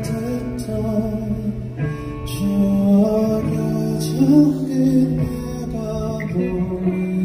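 Live band playing an instrumental passage of long, held notes with no vocals.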